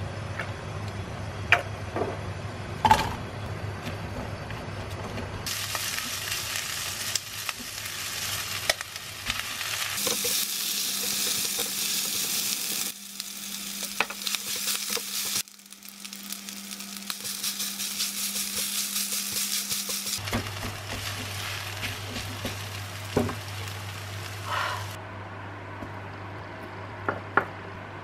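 Food sizzling in a hot nonstick wok as chicken pieces, then rice with vegetables, are stirred and scraped with a silicone spatula. The sizzle comes and goes in short stretches, with the odd click of the spatula on the pan, and drops away near the end.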